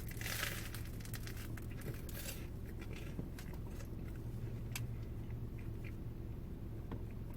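Biting into a crusty Vietnamese baguette banh mi: the crust crackles and crunches for the first couple of seconds, then it is chewed more quietly with a few small clicks.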